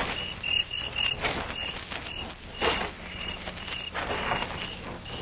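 Crickets chirping in quick repeated pulses, with slow footsteps about every second and a half: two men creeping forward.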